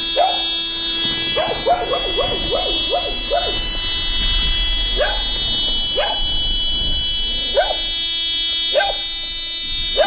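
A dog barking in short, pitched yips, about ten in all, with a quick run of them in the second and third seconds. A steady high-pitched electrical whine runs beneath.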